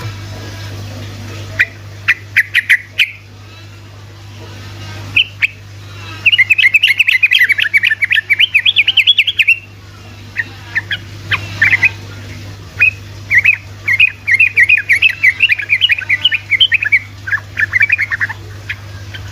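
Yellow-vented bulbul singing its long, rapid chattering song run (ropelan), with a few separate sharp chirps before it. Two long bursts of fast notes, one about six seconds in and another about thirteen seconds in. A steady low hum underneath.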